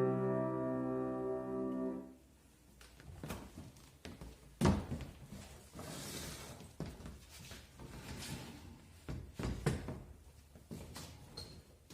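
A held instrumental chord ends abruptly about two seconds in. Scattered knocks, thumps and light shuffling follow, with one louder thump a little later.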